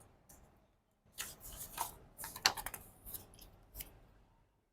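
Paper pages of a picture book being handled and turned: a run of short, crisp rustles and crackles lasting about three seconds, starting about a second in.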